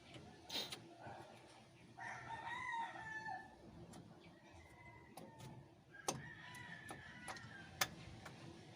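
A rooster crowing twice, each crow about a second and a half long, with a few sharp clicks and knocks in between.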